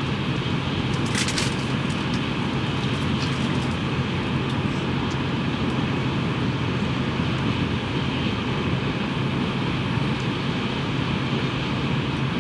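Steady interior noise of a Tokaido Shinkansen train running on the line, heard inside the passenger cabin as an even rumble and rush. A brief rattle of clicks comes about a second in.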